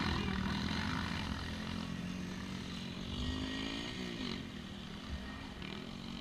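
Motocross bike engines revving, the pitch rising and falling about four seconds in and the sound slowly fading.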